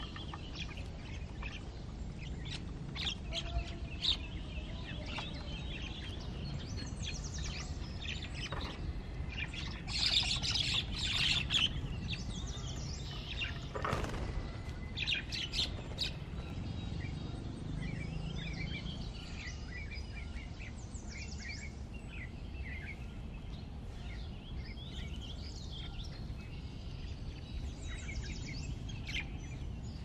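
Birds chirping and calling outdoors: many short chirps scattered through, thickest about ten to twelve seconds in, over a steady low rumble.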